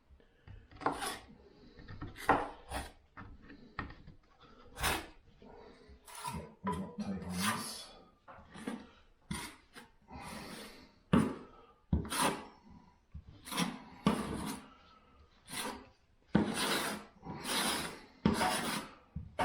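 Plastering knife scraping plaster filler across a wall to fill gaps: a run of short rasping strokes, roughly one a second, uneven in strength.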